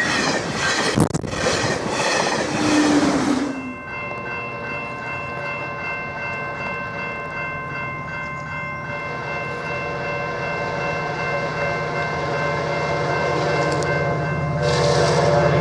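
A COASTER commuter train rushing past close by, its wheels clattering, for the first few seconds. Then a train horn sounds steadily while a diesel locomotive's low engine hum grows louder as it approaches, with a louder horn blast near the end.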